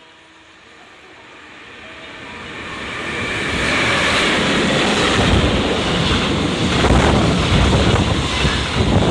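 Loud rushing noise with a low rumble that swells over the first few seconds and then holds, with wind buffeting the microphone.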